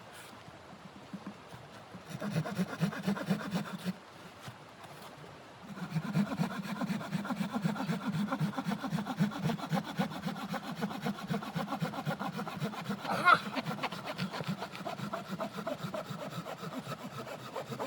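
Hand saw cutting wood in quick, even back-and-forth strokes. A short run of sawing comes first, then after a brief pause a long steady stretch of sawing, with one sharp knock about two-thirds of the way through.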